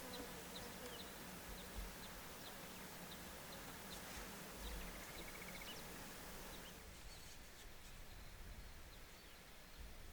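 Faint natural outdoor ambience: short high-pitched chirps repeating about twice a second, with a brief trill about five seconds in. The chirping dies away about seven seconds in.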